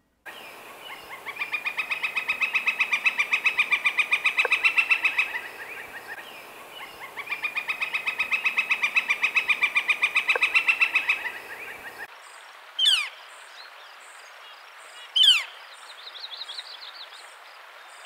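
Northern flicker giving its rolling rattle call twice: a long, rapid run of evenly spaced notes that grows louder as it goes, a territorial call of spring. These are followed by two sharp, falling "kyeer" ("clear") call notes, with another at the end.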